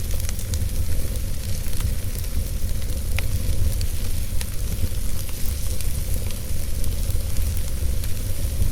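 Wood fire burning in a fireplace: a steady low roar and hiss of the flames with scattered sharp crackles and pops from the burning logs, one louder pop about three seconds in.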